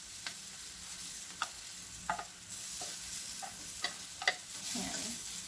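Green beans and carrots sizzling in a hot pan with a steady hiss while they are stirred, a utensil ticking sharply against the pan several times.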